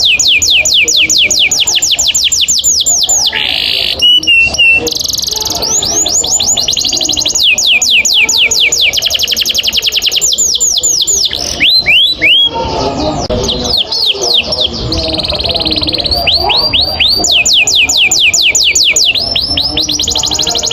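Canary singing a long roll: fast trills of rapidly repeated falling notes, about ten a second, broken by brief pauses and a few short held whistles.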